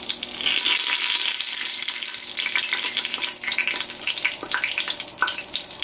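Two bay leaves sizzling in hot ghee in an Instant Pot on high sauté: a steady dense sizzle with many small pops.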